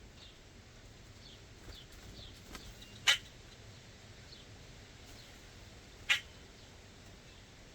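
Backyard birds calling: a loud, short, harsh call twice, about three seconds apart, with faint high falling chirps between.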